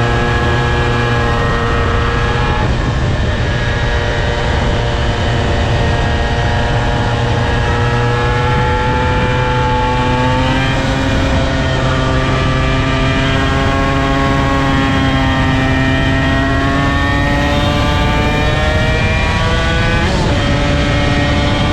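Honda NSR250R two-stroke V-twin under load on track, its pitch climbing through each gear and dropping at gear changes about ten and twenty seconds in.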